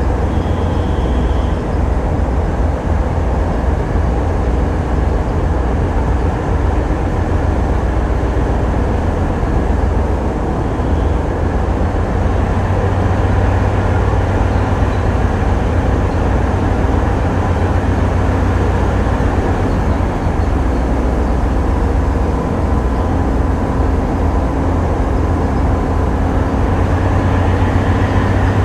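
Tugboat diesel engines running under way, a loud low steady drone that grows a little heavier about halfway through.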